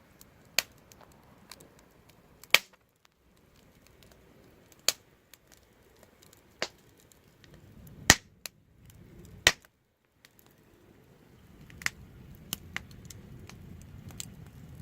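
Wood fire crackling: sharp pops and snaps every second or two, the loudest about two and a half and eight seconds in, over a low rumble of flame that swells at times.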